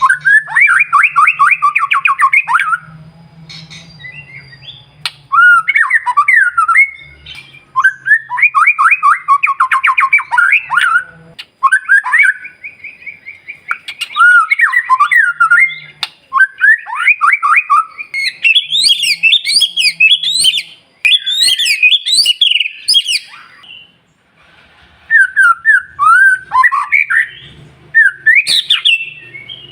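White-rumped shama (murai batu) singing: loud bursts of rapid trilled and whistled phrases with short pauses between them, climbing to higher, sharper phrases in the second half.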